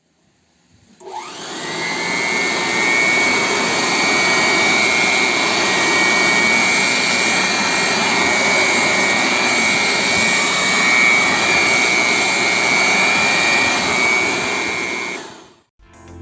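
1200 W electric blower-vacuum switched on about a second in. Its motor whines up to speed and runs steadily, a high whine over rushing air, then is switched off near the end and winds down.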